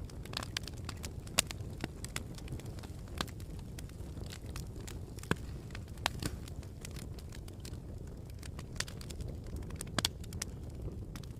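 Campfire crackling: irregular sharp pops and snaps over a steady low rumble, with a few louder pops about a second and a half in and near the end.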